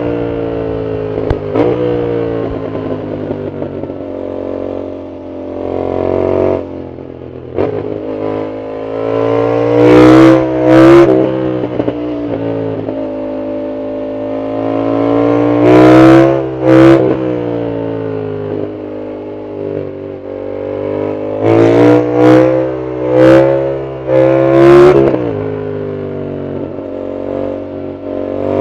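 Yamaha MT-07's CP2 parallel-twin engine through an aftermarket full exhaust, heard while riding, revving up hard several times and winding down between on the throttle-off. The loudest moments are short, harsh flare-ups at the top of each climb in revs.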